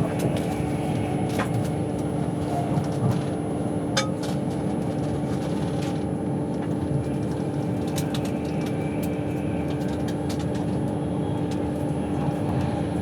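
Passenger train carriage interior at speed: a steady rumble of wheels on rail with a constant low hum from the running gear, and occasional sharp clicks and knocks from the track and carriage.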